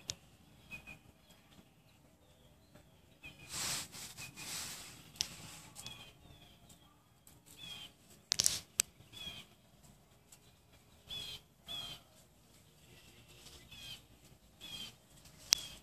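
A songbird repeating short, downward-slurred chirps every second or so. A rustling stretch comes a few seconds in, and a few sharp clicks, the loudest about halfway through and near the end.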